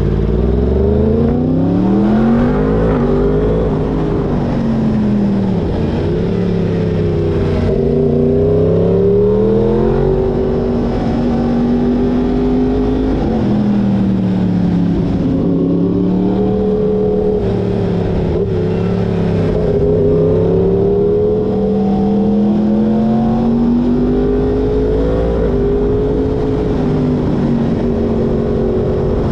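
Yamaha crossplane inline-four sportbike engine under way, its revs climbing and falling again and again, with quick drops in pitch at gear changes and steady stretches between.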